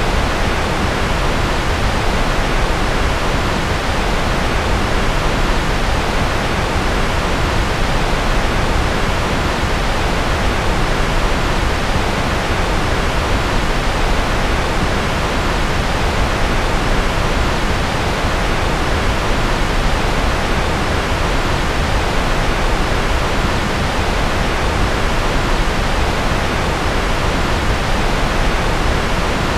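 Steady generated noise, sold as white noise: a constant, even hiss that never changes, weighted toward the low end like pink noise.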